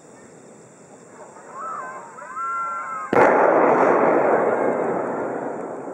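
Crowd voices rise in exclamation, then about three seconds in the burst of a four-shaku (roughly 120 cm) firework shell arrives as one sharp, loud boom that rumbles and dies away over a couple of seconds.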